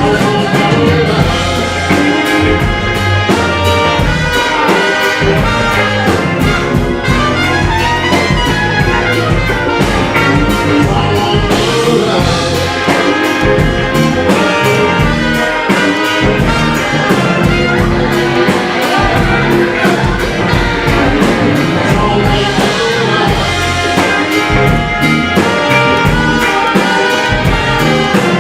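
Live blues band playing an instrumental passage: a horn section of tenor saxophone and trumpet over electric guitars, keyboards, bass and drum kit, with a steady beat.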